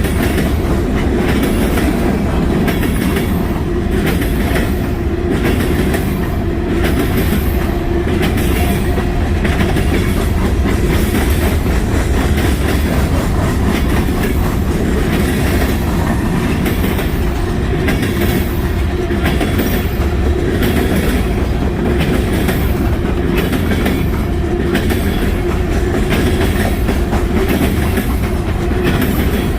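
Freight train cars rolling past in a steady rumble, with the wheels clicking over rail joints again and again.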